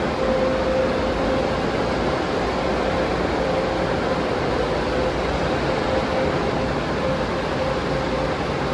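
Automatic tunnel car wash equipment running: a steady rushing noise with a constant hum.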